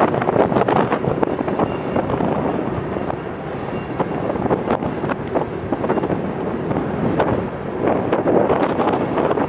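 Freight train's cars rolling past on a curve: a steady rumble of steel wheels on rail with frequent clicks, mixed with wind buffeting the microphone.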